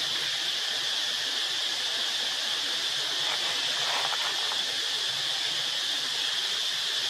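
Steady, high-pitched drone of an insect chorus, with a constant hiss beneath it.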